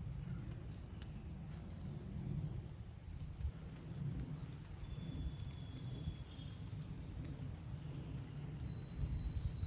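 Small birds chirping with short, high notes, repeated at irregular intervals, with a few thin held whistles mixed in. A steady low rumble of background noise runs underneath.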